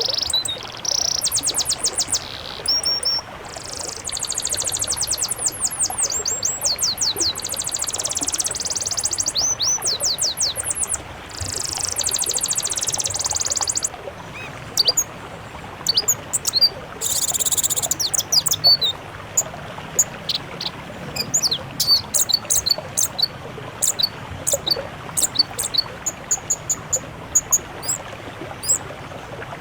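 Songbirds singing high-pitched chirps and rapid trills over a steady hiss. Dense runs of trills fill the first half, then give way to separate sharp chirps and short whistles.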